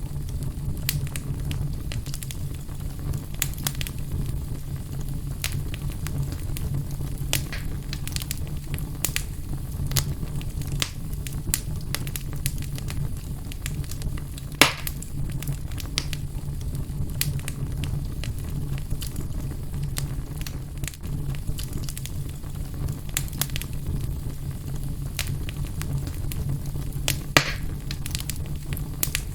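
Fire burning in a fireplace: a steady low rumble under frequent small crackles, with two sharper pops, one about halfway through and one near the end.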